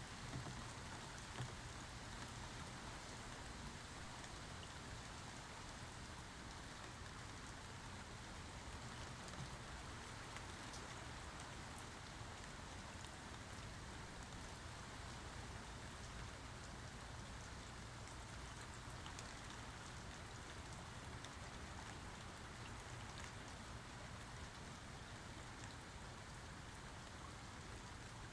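Steady rain falling, an even hiss with faint scattered drop ticks and one brief tap about a second and a half in.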